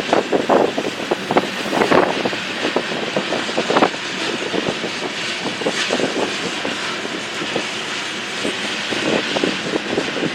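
Railroad cars rolling past on the track, a steady rumble broken by many irregular clacks of wheels over rail joints.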